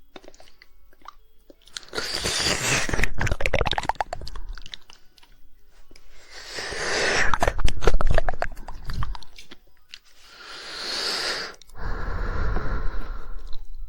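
Rapid 'woodpecker' tongue clicks and wet mouth sounds made close to an ASMR microphone, coming in three bouts of a few seconds each.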